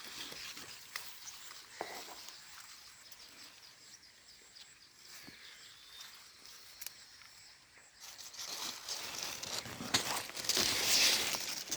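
Dry sugarcane leaves rustling and crackling with footsteps, as someone pushes through the cane. It is faint for most of the time, then grows loud over the last few seconds.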